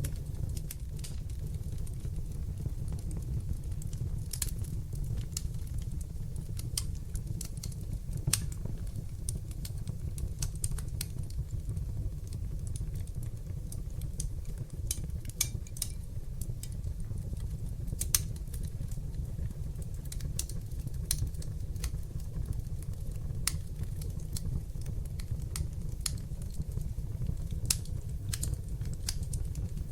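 Wood fire burning in a fireplace: a steady low rumble of flames with frequent irregular sharp crackles and pops, one louder pop about eighteen seconds in.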